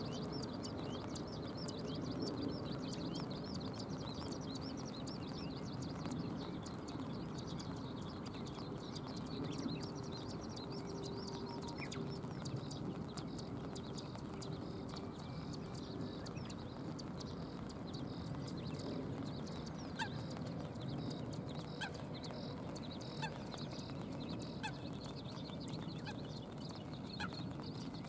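Outdoor rain ambience by a river: a steady hiss with a dense patter of light, high ticks and a few sharper drips in the second half.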